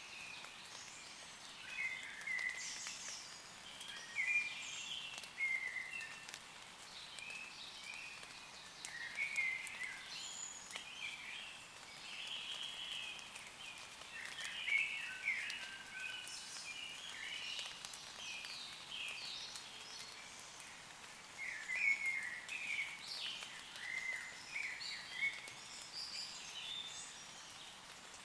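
Woodland songbirds singing and calling in many overlapping short phrases, over a faint steady hiss of light rain.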